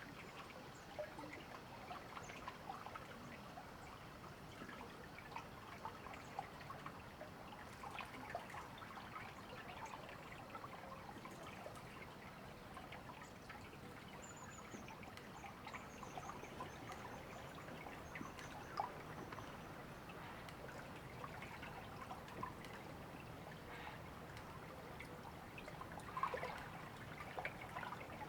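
A small river trickling and babbling steadily, with a faint run of high bird notes about halfway through.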